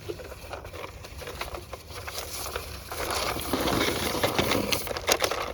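Handling noise: rustling and many light clicks, growing louder and busier a little past the middle.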